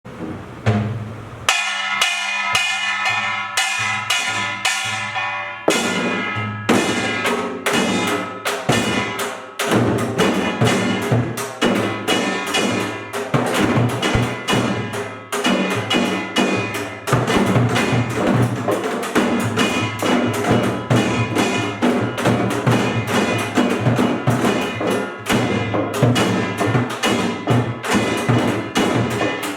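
Pungmul percussion ensemble of kkwaenggwari small gong, buk barrel drums and janggu hourglass drums playing a fast, dense rhythm. The piece starts out of silence, with ringing metallic strokes leading for the first few seconds before the full ensemble comes in about six seconds in.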